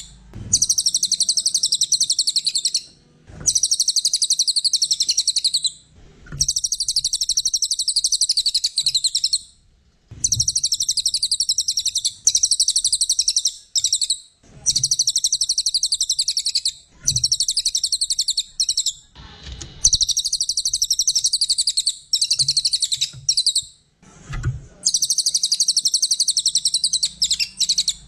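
Cililin songbird singing an excited, rapid, high-pitched chattering song in runs of a few seconds, separated by brief pauses.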